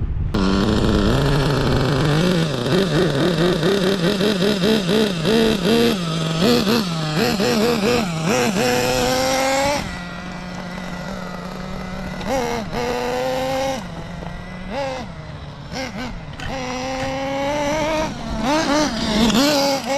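Kyosho nitro RC buggy's SH PT21-P3 glow engine revving up and down again and again while a new engine is broken in. It is louder for the first ten seconds, then fainter, with short steady stretches between revs.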